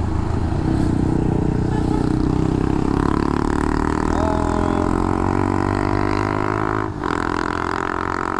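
Motorcycle engine running under way, its pitch sinking slowly as the bike eases off, with a brief dip about seven seconds in.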